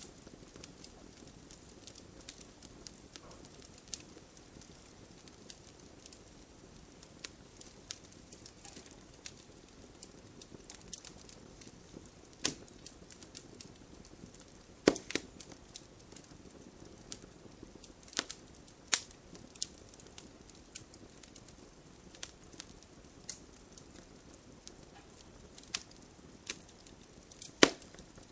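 Bonfire of burning wood crackling, with frequent small sharp snaps and a handful of louder pops scattered through, over a steady low rush.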